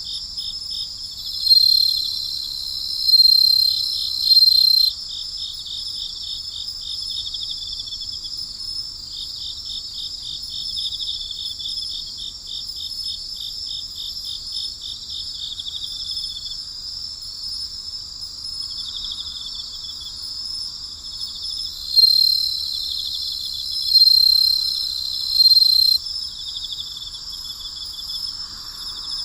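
Night chorus of crickets and other insects: a steady high-pitched trilling with rows of rapid pulsed chirps beneath it. Twice, near the start and again about 22 seconds in, come three louder, longer calls in a row.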